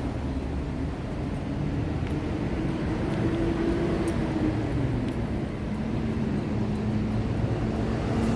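Road noise inside a moving car's cabin: a steady low rumble of tyres and engine, with a hum that rises a little in pitch partway through, then drops and holds steady.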